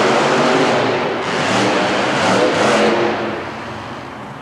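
Monster truck engine revving hard in an indoor arena, surging twice before dropping away about three seconds in.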